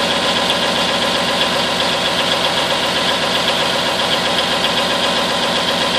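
Cummins six-cylinder diesel of an M931 5-ton military truck idling steadily, heard from the cab, with an even diesel knock. The engine is still running cold, not yet up to temperature.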